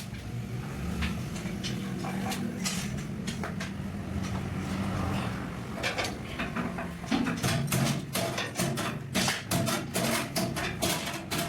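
Metal clinks and knocks from tools and metal parts being handled, irregular and coming thick and fast in the second half, over a steady low hum.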